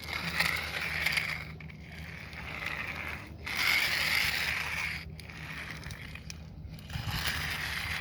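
A plastic toy car being run along a surface, its wheels and mechanism rattling and grinding. The noise comes in four spells of a second or so each, with short breaks between them.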